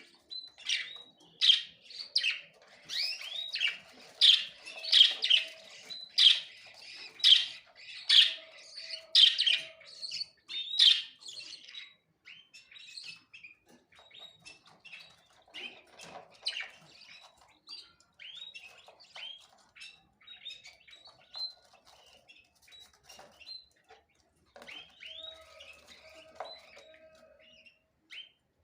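Small birds chirping: a quick run of loud, repeated chirps for about the first eleven seconds, then softer, scattered chirps.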